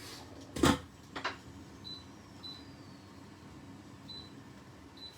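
A sharp knock less than a second in, then several short, high beeps spaced out over the next few seconds: a portable hob's control panel beeping as its heat is turned down to a simmer.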